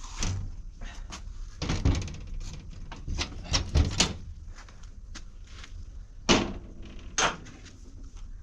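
Irregular knocks and thuds of objects and doors being handled, several sharp bangs among them.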